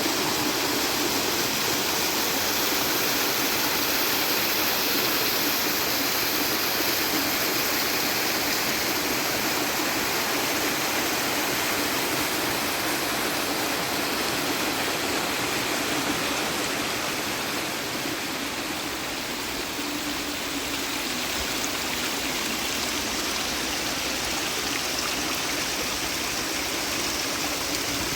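Steady rush of a mountain stream's running water, a little quieter for a few seconds about two-thirds of the way through.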